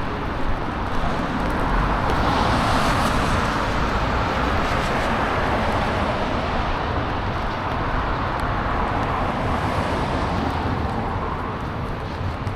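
Road traffic on a rain-wet street: tyres hissing on wet asphalt as vehicles pass, the hiss building about two seconds in and easing off near the end.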